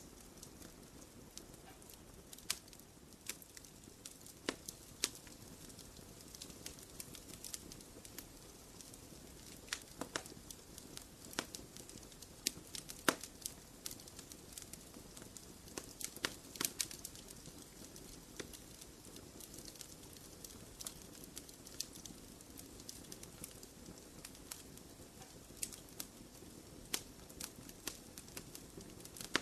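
Wood fire crackling in a fireplace: irregular sharp pops and snaps over a soft, steady low hiss.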